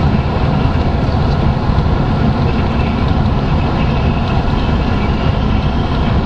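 Steady road noise inside a moving car: engine, tyres and wind blending into an even low rumble.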